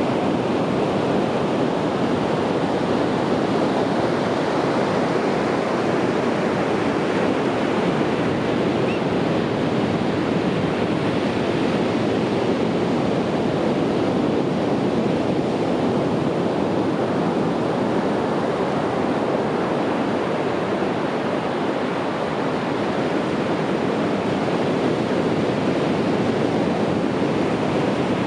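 Ocean surf: a continuous, even wash of breaking waves, without distinct swells or pauses.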